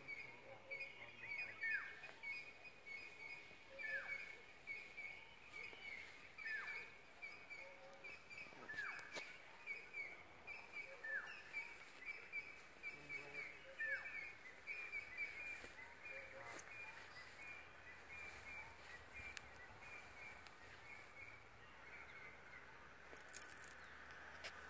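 Faint birdsong: a steady high chatter of short notes, and a call that slides downward, repeated about every two seconds through the first half.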